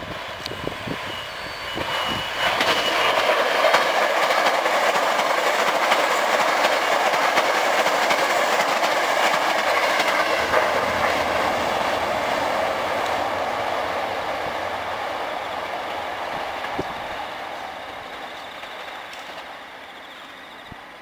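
Eight-car Hankyu 1300 series electric train passing through at speed, with steel wheels rumbling and clattering over the rails. It grows loud about two seconds in, stays loud while the cars go by close, then fades steadily as the train draws away. A thin high tone is heard briefly near the start.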